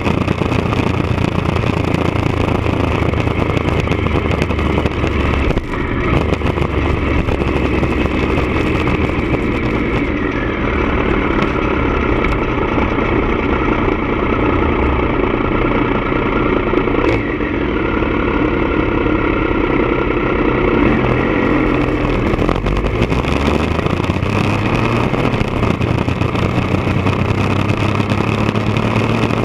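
Three-cylinder engine of a 1999 Triumph Daytona 955i running through a D&D aftermarket exhaust, steady for most of the time, with the engine pitch rising over the last several seconds.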